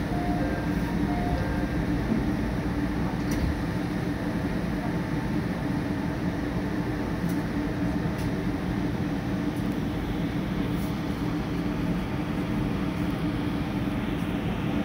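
Steady hum inside a JR train carriage, with low even tones and a faint background hiss and no sudden events.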